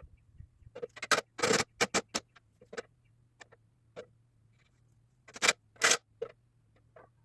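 Irregular knocks and clicks with two short, louder scrapes, about a second in and again past the middle, over a faint steady low hum.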